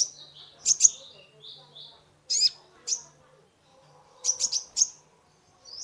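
Kolibri ninja (a sunbird) singing: sharp, very high chip notes in quick clusters, with softer short whistled notes between them in the first couple of seconds and a rapid run of four chips near the end.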